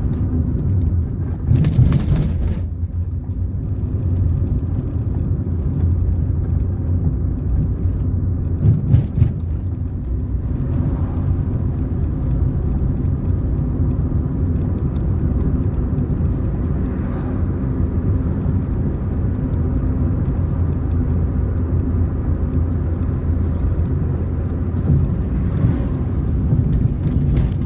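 Car driving along a road: a steady low rumble of engine and tyres, with a brief louder rush about two seconds in and another short burst around nine seconds.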